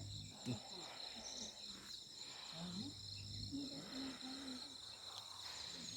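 Crickets chirping in a steady chorus, several high trills sounding together, with faint murmuring underneath.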